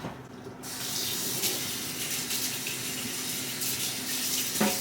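Kitchen tap turned on about half a second in, water running steadily into the sink.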